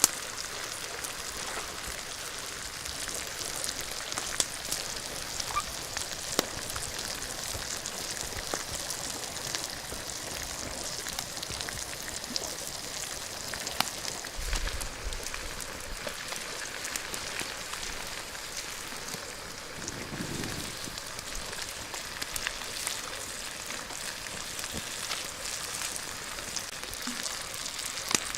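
Fish sizzling on a hot rock over a wood fire: a steady hiss with many scattered crackles and pops.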